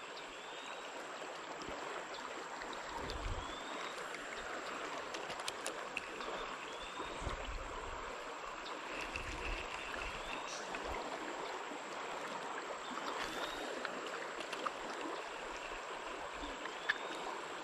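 Creek water flowing steadily over rocks, a constant even rush, with a few faint low bumps.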